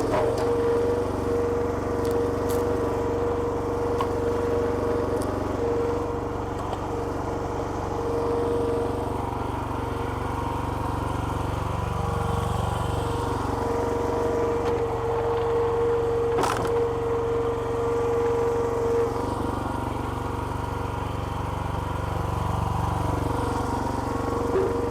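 Small petrol engine driving the hydraulic pump of a homemade log splitter, running steadily. Its low tone shifts briefly twice, about halfway and near the end.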